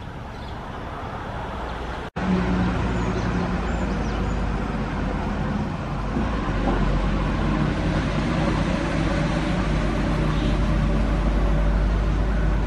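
Steady road traffic noise, a low engine rumble with no single event standing out. It cuts out briefly about two seconds in and comes back louder.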